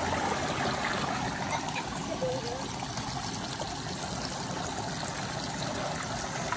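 Water trickling steadily in a children's water table.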